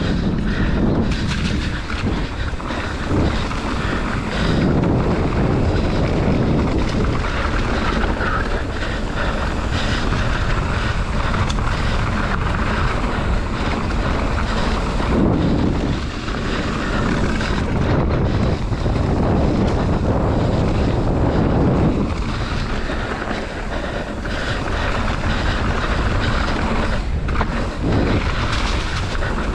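Mountain bike descending a dirt trail at speed: a steady rumble of tyres over the ground, with wind rushing over the microphone and rising and falling in strength.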